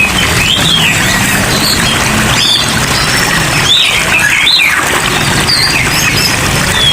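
Many caged songbirds chirping and calling at once, short sliding chirps overlapping one another, over a steady hiss of rain: the mixed chatter of a bird shop.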